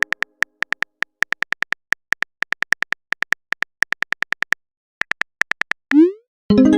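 Texting-app sound effects: a run of short, identical keyboard-tap clicks as a message is typed, pausing briefly, then a quick rising swoop as the message is sent. A pitched notification chime starts right at the end.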